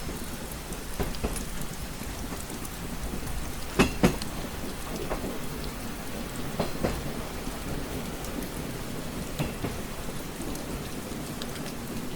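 Steady rain pattering against a window pane, with scattered sharper drop taps and two louder taps about four seconds in, over a low rumble.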